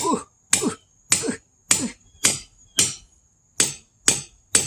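Steady hammer blows driving a steel bit from a concrete demolition hammer into a crack in a hardwood log to split it: nine sharp strikes, about two a second, each with a brief ring, and a slightly longer pause near the three-second mark.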